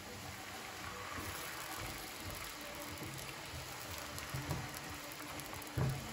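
Potato sticks sizzling and crackling as they fry in oil that is foaming up in a pan. A silicone spatula stirs them, with a couple of soft knocks against the pan, the loudest near the end.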